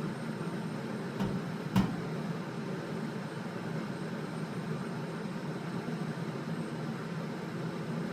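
A steady mechanical hum, like a fan or machine running, with two short metallic knocks about a second apart near the start, the second louder.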